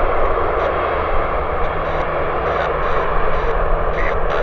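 Engines of an arriving jet airliner, a steady even rushing noise over a low rumble.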